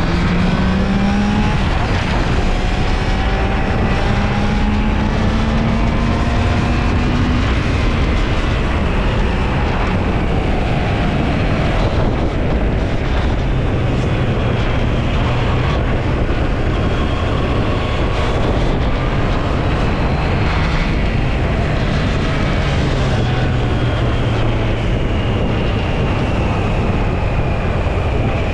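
Triumph Trident 660's three-cylinder engine running under way, its pitch climbing gradually and dropping back several times, under a steady rushing noise.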